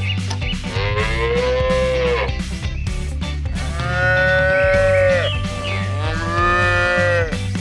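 Cow mooing three times, each a drawn-out call of about a second and a half that rises and then falls in pitch, over background music.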